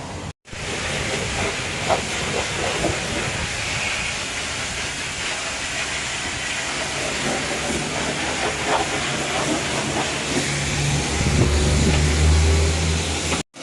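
Pressure washer spraying a steady hissing jet of water onto a car, with a low hum coming in near the end.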